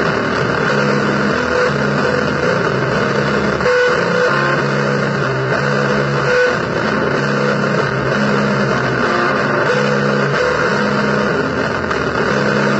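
Heavily distorted, noisy electric guitar music: a low blues riff repeats over and over beneath a thick wash of noise.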